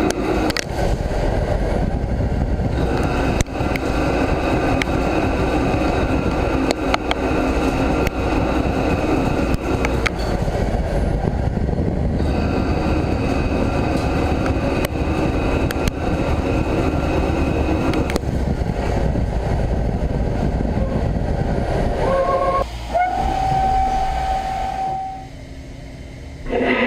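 CNC lathe machining a steel crankshaft: steady machine noise of the cutting, with scattered clicks. About 23 seconds in it gives way to a steady whine, and then it goes quieter.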